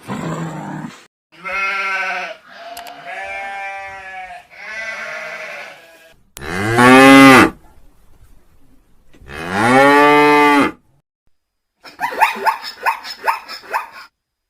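A series of farm livestock calls, cattle and sheep or goats. Several bleat-like calls come in the first half, then two loud, long, low lowing calls a few seconds apart, and a rapid wavering call near the end.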